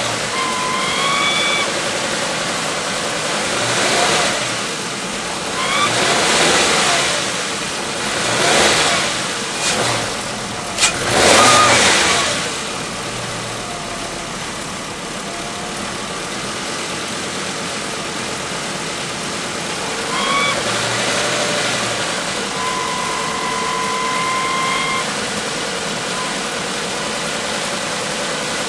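Volkswagen Passat V5 wagon running, its engine and road noise rising and easing several times, with a high squeal that comes and goes. One sharp click about eleven seconds in. The squeal is the abnormal noise still present after a dealer inspection and repair.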